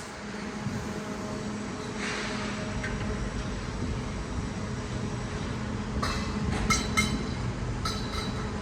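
A train running through the station with a steady hum that slowly grows louder. From about six seconds in, its wheels clatter over rail joints or points in quick repeated clicks.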